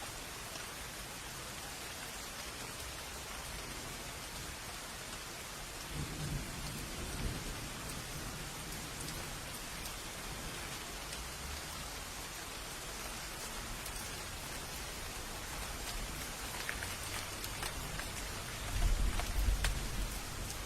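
Steady heavy rain falling, with two rolls of thunder: a low rumble about six seconds in and a louder one near the end.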